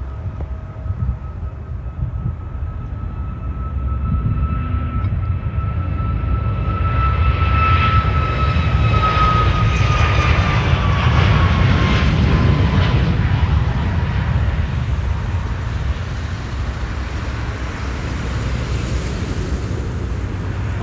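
Jet airliner taking off and passing close by. Its engine noise builds over several seconds to its loudest about halfway through, with a high whine that drops in pitch as it goes past, over a deep rumble.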